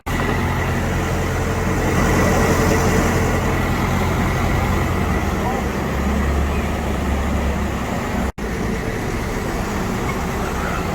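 Diesel generator engine of a New Routemaster (Borismaster) series-hybrid double-decker bus running with a steady low hum over street traffic. The hum grows stronger about six seconds in, and the sound drops out for an instant a little after eight seconds.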